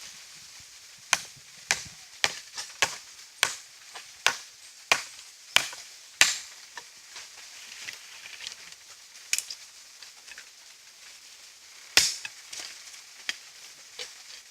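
Dry wood being chopped: about ten sharp blows in a steady rhythm of roughly two a second, then a few more spaced-out blows.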